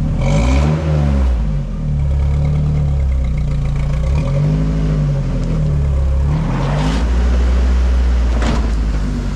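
Off-road rig's engine revving up and down under load, rising and falling around one second in and again between about four and six seconds, while climbing a rock obstacle. Two sharp knocks near the end.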